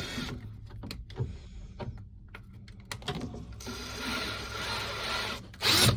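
Cordless drill running for about two seconds, driving a screw into the wall, after a few light clicks and knocks, with a short loud noise near the end.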